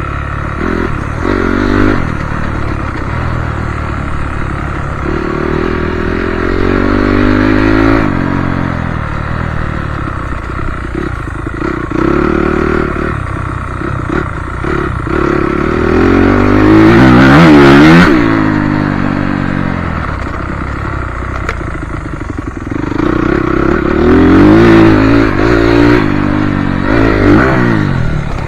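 Motocross bike engine revving up and falling back again and again as the bike rides the track, with its loudest, highest-pitched rev about two-thirds of the way through.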